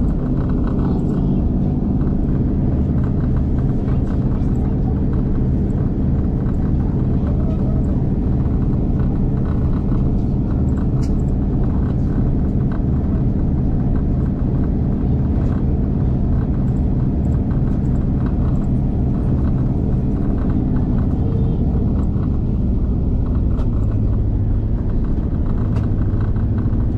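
Steady rumble of a V/Line diesel train running along the track, heard from inside the carriage, with the low drone of the diesel engine under it. The drone shifts a little lower near the end.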